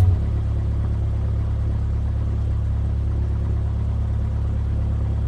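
Cessna 172F's six-cylinder engine running at a steady low drone, with no change in pitch.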